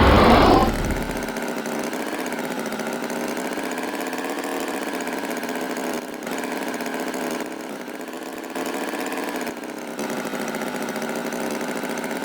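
Tractor engine idling steadily, after a loud, brief burst of noise at the very start.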